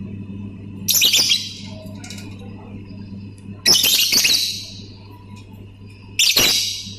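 Lovebird giving three short, harsh, rapidly clicking chattering calls: one about a second in, one near the middle and one near the end.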